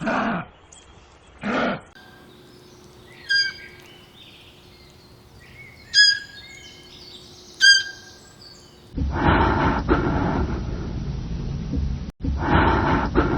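A run of different animal calls, one after another: two short calls, then three sharp high chirps spread a couple of seconds apart, then a louder, rougher call that goes on for several seconds and breaks off briefly near the end.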